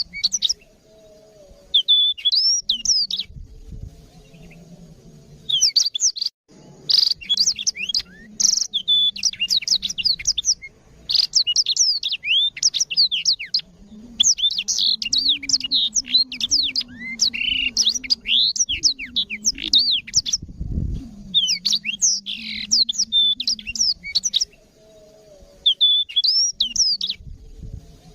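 Blackthroat (yellow-rumped seedeater) singing: long phrases of fast, high twittering trills and chirps, broken by a few short pauses, over a faint low hum.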